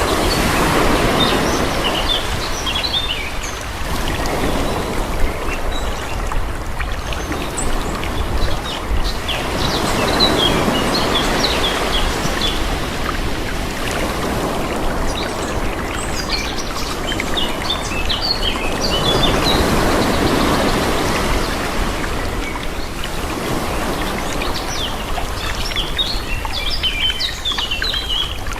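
Calm sea waves washing in and drawing back in slow swells every several seconds, with small birds chirping in short runs over them.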